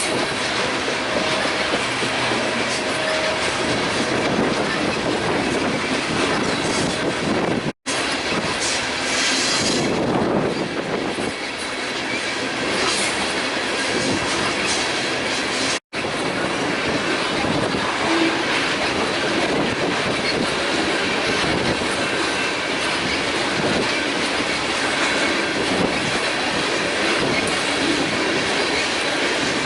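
Freight train cars rolling past, wheels clacking over rail joints with some wheel squeal, a steady continuous rumble and rattle. The sound cuts out for an instant twice.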